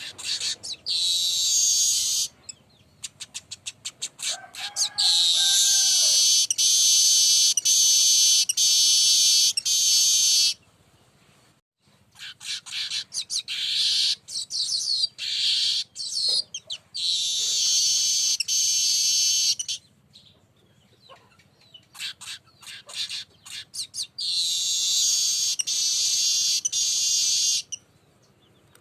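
Weaver (burung manyar) song used as a lure call: runs of rapid dry ticks building into long buzzy, sizzling phrases, repeated four times with short pauses between.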